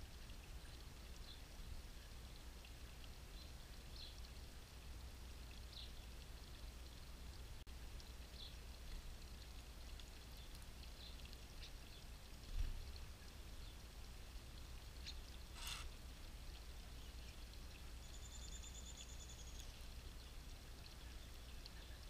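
Small birds chirping faintly now and then, with a short rapid trill about three-quarters of the way through, over a steady low background rumble. A single low thump about halfway is the loudest sound.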